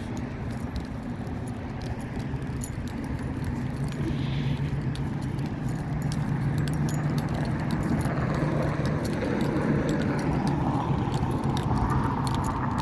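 A steady low engine-like hum, as of nearby road traffic, growing slowly louder, with scattered light clicks and rattles over it.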